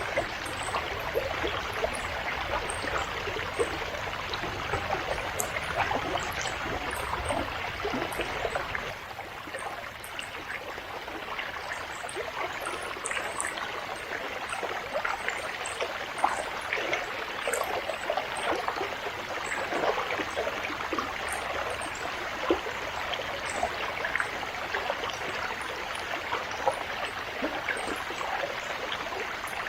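A river or stream flowing over rocks: steady rushing water dotted with small splashes and trickles. A deeper low rumble underneath drops away about nine seconds in.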